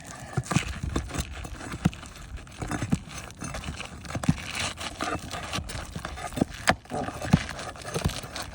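Irregular knocks, clicks and scraping as a laminated roof shingle is pried loose from its remaining fasteners and worked free.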